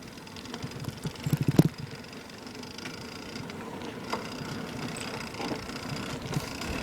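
Bicycle chain rattling and slapping against the plastic chain guard as the bike rolls over bumpy ground, with a burst of loud clattering about a second and a half in.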